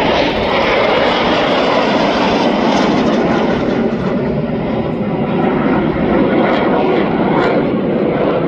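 Aircraft in flight: a loud, steady rushing engine noise.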